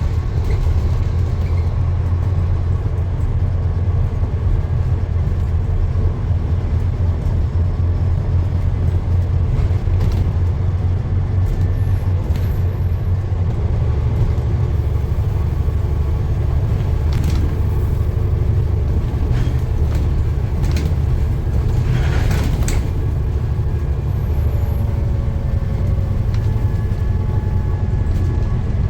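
Steady low rumble of a running vehicle, with a few short clicks and a brief rattle about three-quarters of the way through.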